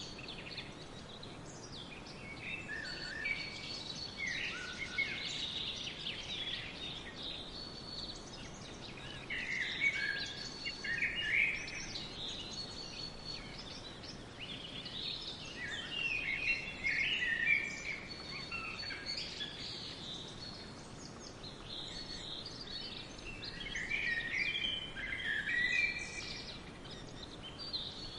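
Several songbirds singing in a forest, in bouts of quick chirps and warbles every few seconds, over a faint steady hiss.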